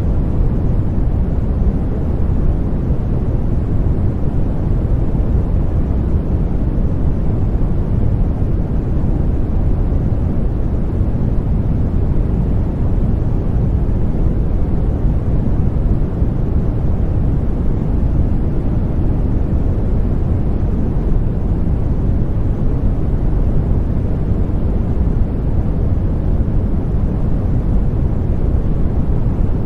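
Continuous white noise played as a baby sleep sound: a steady, unchanging hiss, bass-heavy and deep, with little treble.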